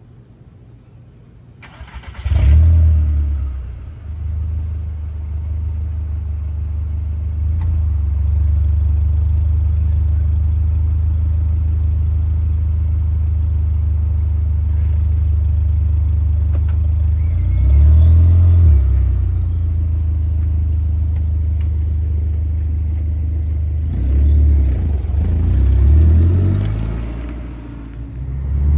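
Volkswagen Jetta 1.8T turbocharged four-cylinder engine starting about two seconds in, then idling steadily, with a short rev around the middle and a couple more near the end.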